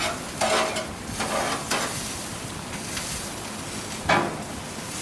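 Burger patties and hot dogs sizzling on a grill, a steady hiss with a few brief louder scrapes.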